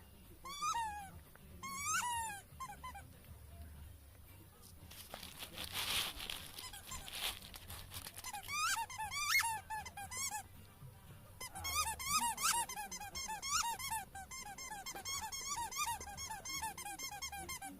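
Rubber squeaky toy ball squeaked again and again in quick runs as it is bitten, each squeak a short bending whine, with a few seconds of hiss-like noise partway through.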